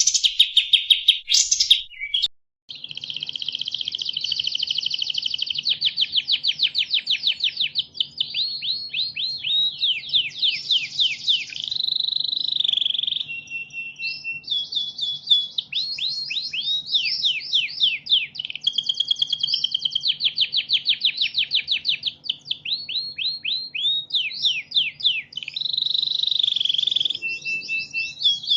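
Recorded songbird song: long, fast runs of sweeping notes and trills, with phrases changing every few seconds. It is a masteran tutoring recording, with a sudden cut about two seconds in and a faint low hum under the song after it.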